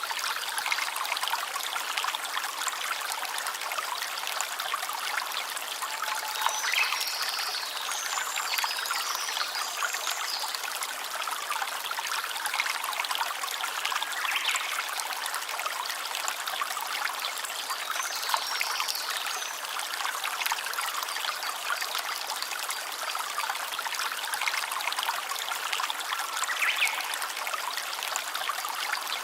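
A stream of running water trickling and splashing steadily, with a few brief high chirps over it now and then.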